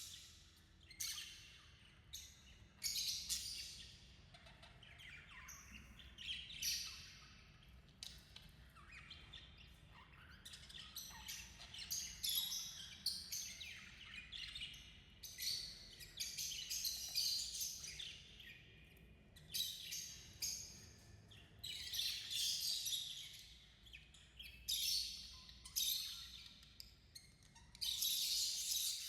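Budgies chirping and chattering in repeated short bursts of high notes, with brief pauses between bursts.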